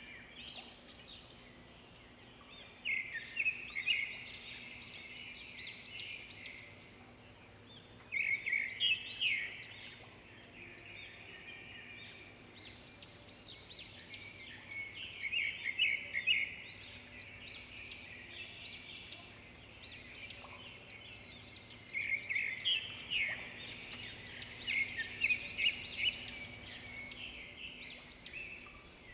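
Birds calling in bouts of rapid, high chirping notes, each bout lasting a few seconds and recurring every several seconds, over faint steady forest ambience.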